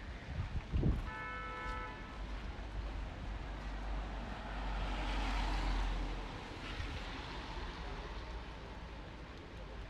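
Car horn tooting once, briefly, about a second in, just after a couple of low thumps. Then a vehicle passes on the street, its noise swelling and fading around the middle.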